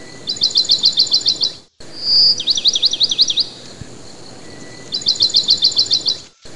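Songbird singing two alternating high phrases: a fast run of about ten evenly spaced notes, then a held whistle followed by a string of quick falling slurs. The pattern repeats at regular spacing and is broken twice by a brief total silence.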